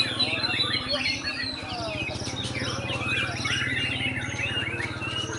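White-rumped shama singing a fast, varied run of chirps and whistled phrases with no pauses, over a steady low hum.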